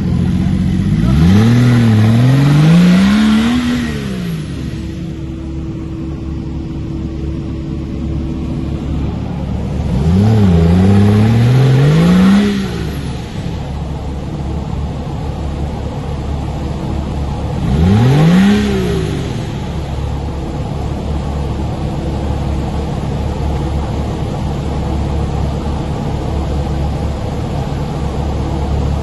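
Off-road 4x4's engine revved up hard three times under load on a steep rocky climb, each time rising and falling in pitch, the last one shorter, and idling steadily in between.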